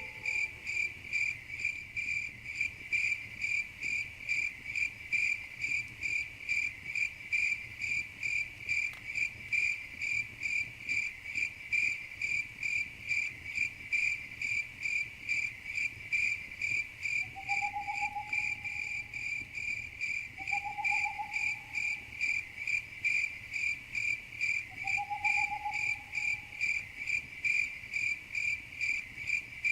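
Crickets chirping in a steady, even rhythm, about two chirps a second. Three short lower calls come in the second half.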